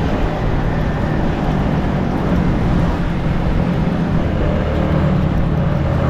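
Yamaha MT-15's 155 cc single-cylinder engine running stock while riding, at fairly steady revs, with wind and road noise. The engine note shifts a little in pitch about four seconds in.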